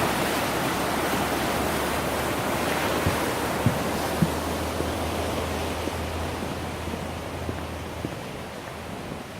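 River water rushing steadily over rapids, slowly getting quieter over the last few seconds. A few soft thumps about three to four seconds in.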